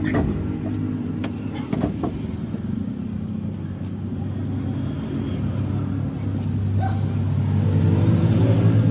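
A motor vehicle's engine running steadily, growing louder near the end. A few sharp knocks come in the first two seconds.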